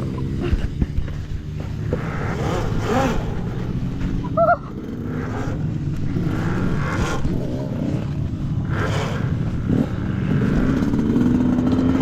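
Dirt bike engines revving up and down over a steady low rumble, with a brief high chirp about four seconds in.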